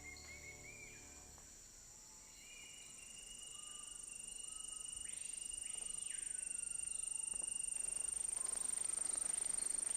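Rainforest insects making a steady, high-pitched trilling drone that comes in about two and a half seconds in and grows louder, with scattered short bird chirps. Soft held music notes fade out within the first second.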